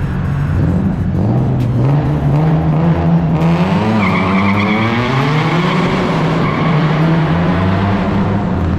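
Single-turbo Nissan 370Z's 3.7-litre VQ37VHR V6 running under load. It climbs in pitch about three to four seconds in, with a higher whistle above the engine from then on.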